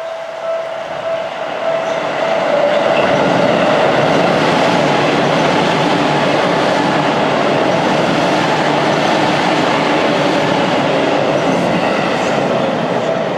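Seibu 10000 series 'New Red Arrow' seven-car limited express electric train passing a level crossing. Its noise swells about two seconds in and holds until near the end. The crossing's warning bell rings throughout and is heard clearly at the start and end.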